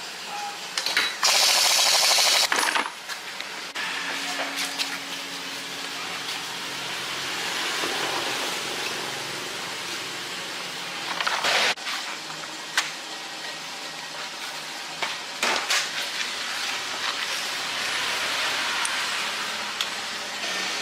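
Metal tools and parts clinking and being handled during tyre work, with a short loud hiss about a second in and a few sharp clicks later on.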